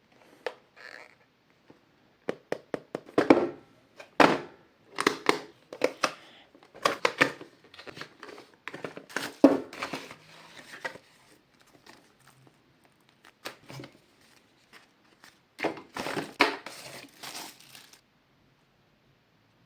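A mouse's retail packaging being opened by hand: cardboard and plastic wrapping crinkling, crushing and tearing in irregular bursts, stopping about eighteen seconds in.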